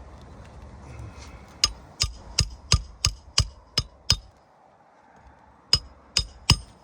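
Hand hammer driving roofing nails into asphalt shingles: a run of about eight sharp strikes, roughly three a second, then after a short pause three more strikes near the end.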